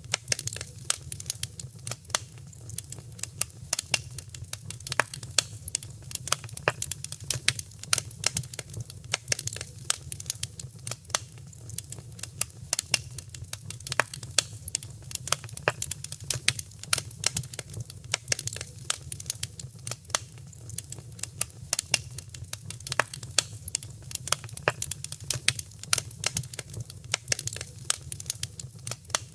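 Wood fire crackling in a fireplace: many small sharp pops and snaps at an irregular, busy rate over a steady low rumble of the flames.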